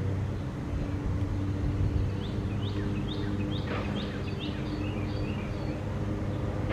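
A steady low mechanical hum runs throughout. Over it, a small songbird gives a quick series of short, high chirps from about two seconds in to near six seconds.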